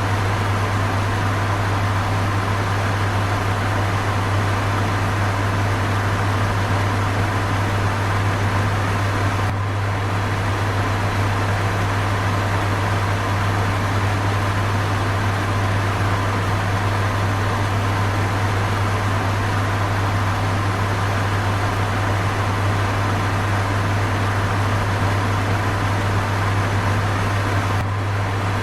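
A fan running steadily: an even rushing noise over a strong low hum, dipping for a moment about ten seconds in and again near the end.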